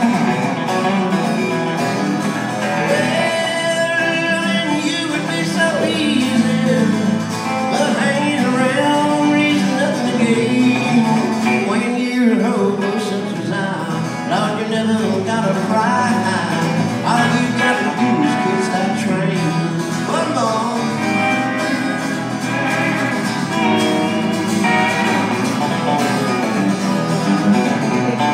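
Country band playing an instrumental break, with guitars carrying the tune.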